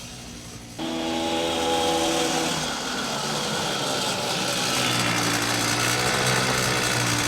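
A small motor running at a steady speed with a buzzing, chainsaw-like tone, starting abruptly about a second in.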